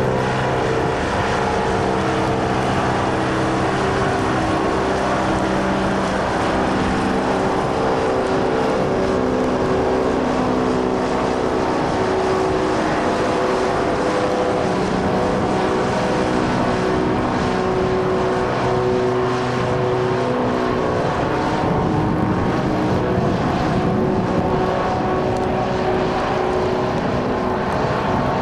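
The propeller engines of an AT-10 airship droning as it flies by: a steady, loud hum made of several tones that shift up and down in pitch every second or two.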